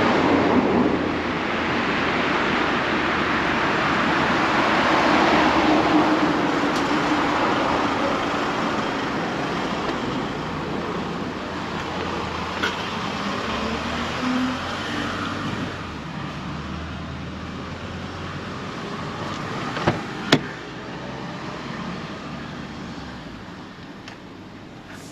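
Road vehicle noise, a broad steady rush like passing traffic that slowly fades, with two sharp clicks close together about two-thirds of the way through.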